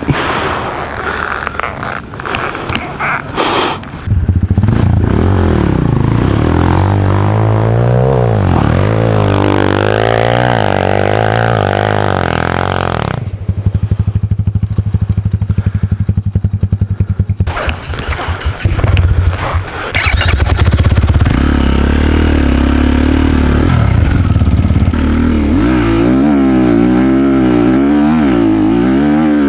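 Enduro dirt bike engine running hard over rough ground, its revs rising and falling with the throttle. About halfway through it settles to a low steady run for a few seconds, then revs up and varies again. A few knocks and rattles come in the first few seconds.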